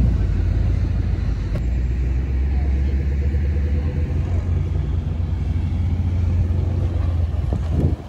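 Car engine idling with a steady deep rumble; it drops away sharply near the end.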